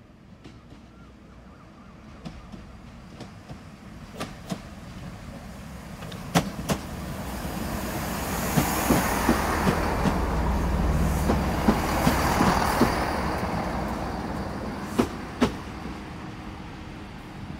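GWR Class 165 diesel multiple unit running in along the platform and past: its engine and wheel noise grows, is loudest about halfway through, then fades. A run of sharp wheel clicks sounds in the middle, and two more come near the end.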